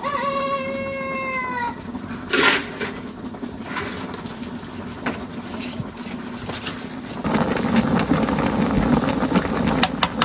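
A single drawn-out animal call lasting under two seconds and falling slightly in pitch, then a short sharp noisy crash. From about seven seconds in comes a louder, steady rushing noise.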